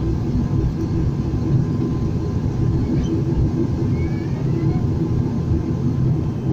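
Steady engine and propeller rumble of a turboprop airliner heard from inside the cabin, with a faint steady tone above it, as the aircraft rolls on the ground after landing.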